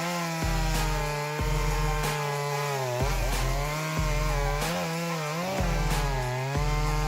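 Shindaiwa 390SX two-stroke chainsaw running at high revs, its pitch dipping and recovering again and again as it cuts, over background music with a steady low beat.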